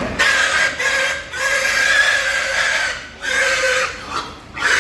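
Pigs squealing in long, harsh screams, about four in a row with short breaks between them.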